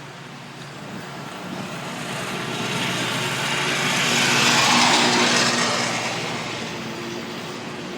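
A motor vehicle passing close by on the road: its tyre and engine noise swells up, peaks about halfway, then fades away.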